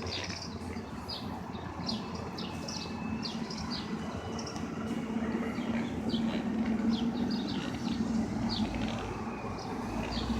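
Small birds chirping in quick repeated notes over steady street-traffic rumble, with a vehicle engine hum growing louder in the second half.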